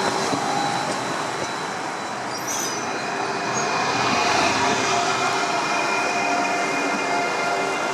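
An electric train running through a station, its steady rumble of wheels and running gear overlaid by thin, steady whining tones.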